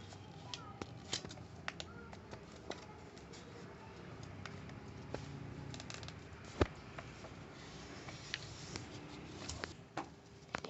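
A sheet of paper being folded and creased by hand: faint rustling with scattered small clicks, and one sharper tap about two-thirds of the way through.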